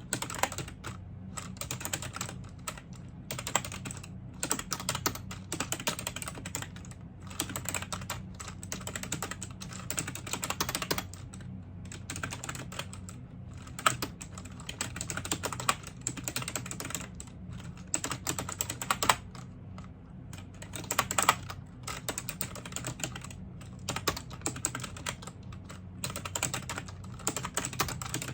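Typing on a computer keyboard: rapid keystroke clicks in runs, with brief pauses between them, over a steady low hum.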